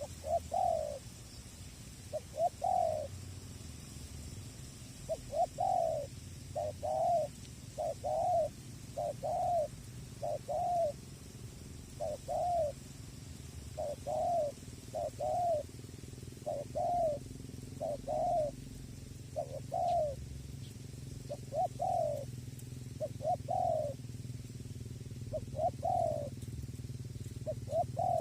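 Spotted dove (tekukur) cooing: a long run of short, rounded coo notes, about one a second, some coming in quick pairs.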